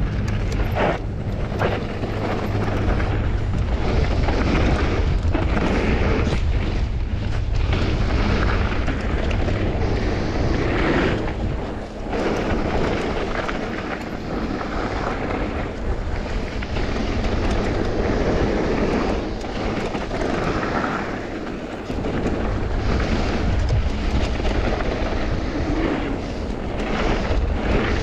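Mountain bike descending a bike-park trail: steady wind rush on the microphone with tyres rolling over dirt and gravel and frequent knocks and rattles from the bike over bumps.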